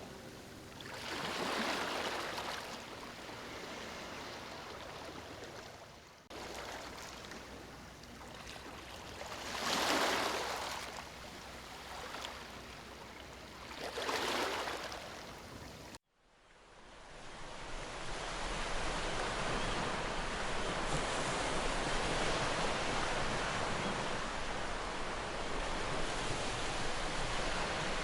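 Sea waves washing onto a shore, with several separate surges, each rising and falling over a second or two. About halfway through there is an abrupt cut to a steadier, continuous rush of surf.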